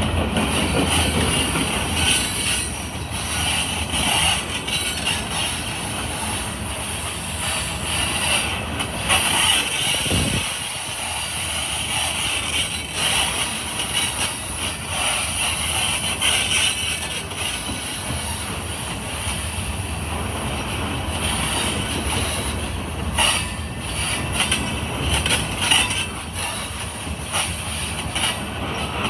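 Freight train cars rolling past, with a steady rumble of wheels on the rails and scattered clicks and clanks.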